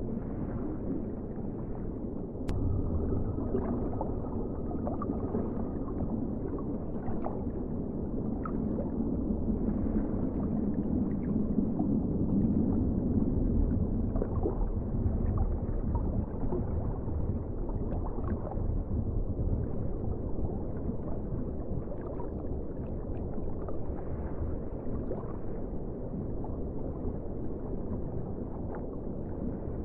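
Underwater ocean ambience: a steady, muffled low rumble of moving water with scattered faint clicks.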